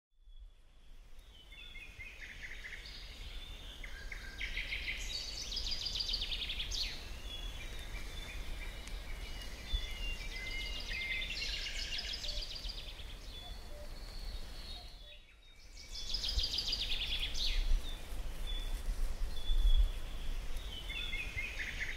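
Songbirds singing in repeated trilled, chirping phrases over a low rumble. The sound drops away briefly about fifteen seconds in, then the birdsong returns.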